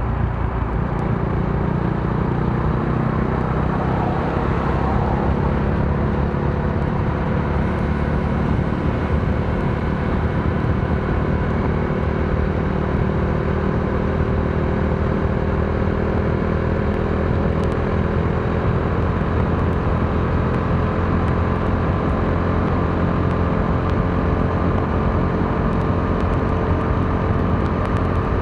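Modenas Dominar D400's single-cylinder engine running under way at a steady pace, its pitch creeping slowly upward over the second half, over a steady hiss of wind and wet road.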